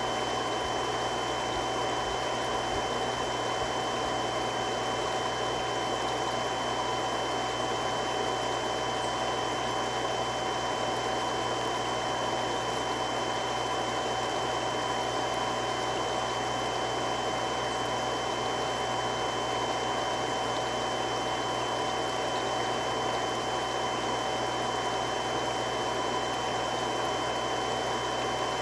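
Three-stage irrigation water pump running steadily: a constant rushing noise with a few steady whining tones over it.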